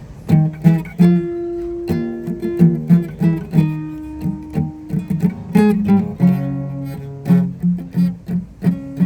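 Acoustic guitar played, a run of picked notes and chords that begins about a third of a second in.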